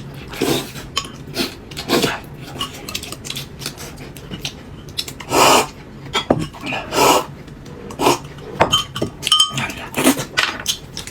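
Dishes and utensils clattering: a string of short knocks and clinks every half second to a second and a half, the loudest about five and a half and seven seconds in.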